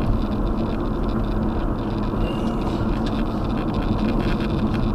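Steady rumble of road and engine noise from a car driving along, heard from inside the cabin.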